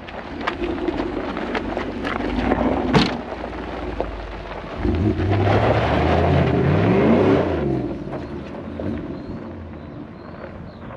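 The Hilux's 1UZ-FE V8 engine, rising and falling in pitch from about five seconds in to near eight seconds, the loudest part. Before that come scattered knocks and one sharp bang about three seconds in.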